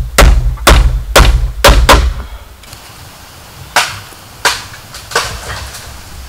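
A tool striking bamboo in hard, even blows about two a second, which stop about two seconds in; after that come a few fainter, spaced single blows.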